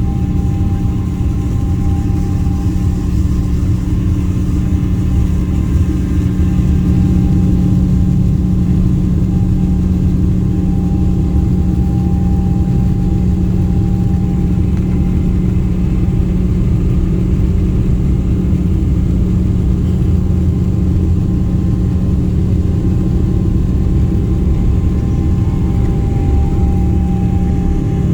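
Jet airliner's engines running with a steady low rumble and a constant hum.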